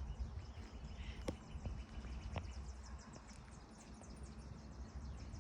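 Faint background noise with a low rumble, broken by a sharp click about a second in and a softer one a second later.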